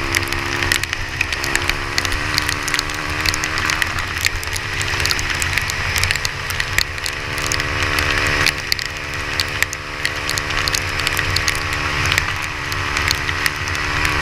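Rain falling in a dense crackle of drops over a steady hiss, with an engine running steadily underneath.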